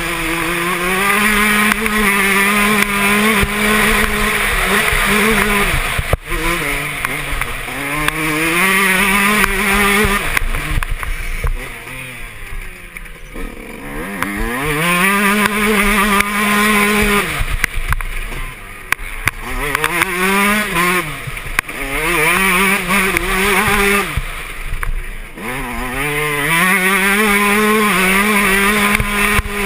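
Yamaha YZ125 two-stroke motocross engine revving hard through the gears, its note climbing and holding high, then dropping as the throttle is closed, about six times over, with wind noise on the microphone.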